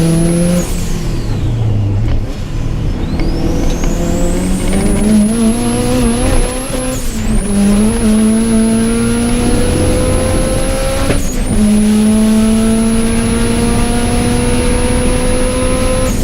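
Subaru Impreza GC8's flat-four engine pulling hard on track. The revs dip and recover at the start, then climb steadily through the gears, with two upshifts about 7 and 11 seconds in that each bring a sudden drop in pitch. A high whine rises and holds alongside the engine.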